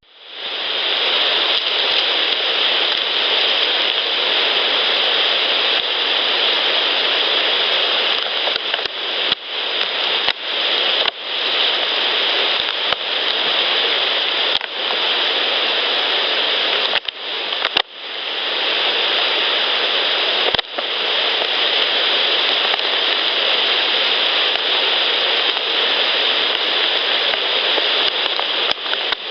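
Steady loud hiss of an unattended field recorder at high gain, broken by a string of sharp knocks and clacks, as of objects being handled near the recorder, from about 8 to 21 seconds in. After each knock the hiss briefly drops and then swells back.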